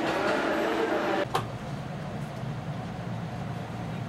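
Steady hum of a standing 189 series electric train at the platform, which gives way suddenly about a second in, with a single click, to a lower, quieter steady rumble inside the stationary carriage.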